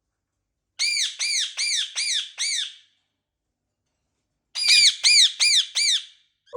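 Indian ringneck parrot squawking: two runs of about five quick, high calls each, every call arching up and then down in pitch.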